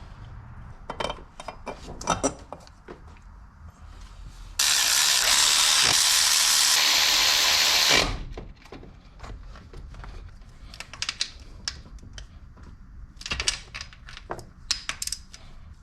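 Hand ratchet wrench clicking in short runs as the thermostat housing bolts are run in. About four and a half seconds in, a loud steady hiss lasts about three seconds and cuts off suddenly.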